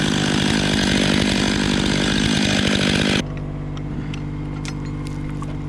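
Chainsaw running at high revs for about three seconds, then cutting off abruptly to a quieter, steady engine sound with a few sharp clicks.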